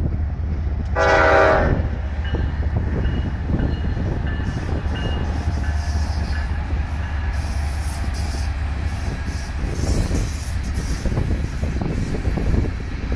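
One short locomotive horn blast about a second in, the loudest sound, over the steady low rumble of Norfolk Southern diesel locomotives hauling a coal train past.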